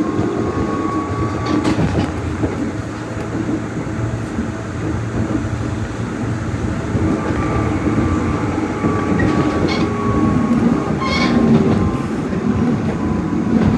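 Nishitetsu 600 series electric train running between stations, heard from inside the rear car: a steady rumble with wheels clattering over rail joints and a faint steady whine. A brief high squeal about eleven seconds in.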